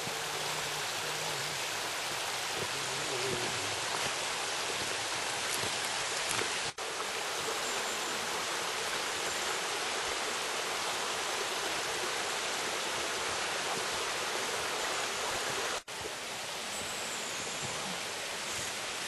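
Steady rush of flowing stream water, an even hiss that cuts out for an instant twice.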